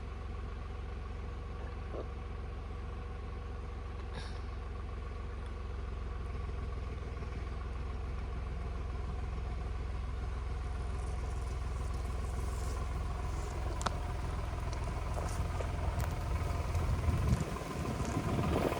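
Tractor engine running steadily, growing gradually louder, with scattered knocks and rattles in the last few seconds.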